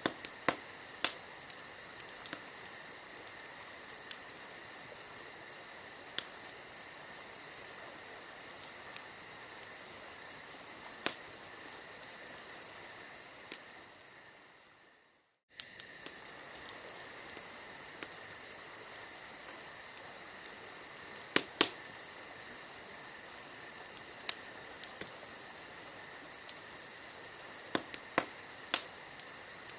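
Wood campfire crackling with scattered sharp pops over a steady chirping of crickets. About halfway the sound fades out to silence, then cuts abruptly back in.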